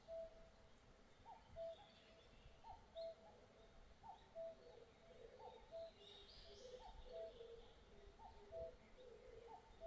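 A bird repeating a two-note call: a short downward note, then a lower held note, about every second and a half. Near the middle a second, lower-pitched calling joins in, with faint high chirps above.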